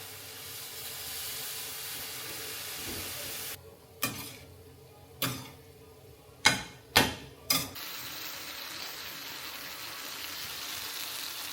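Food sizzling in a hot frying pan; the sizzle drops away for a few seconds in the middle, where five sharp knocks sound, then returns.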